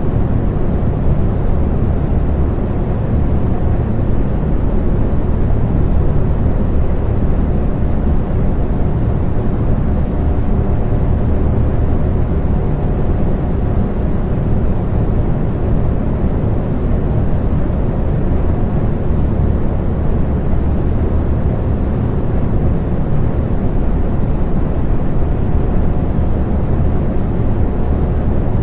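Electric fan running steadily: a constant low whooshing rush of moving air with a faint steady hum from the motor.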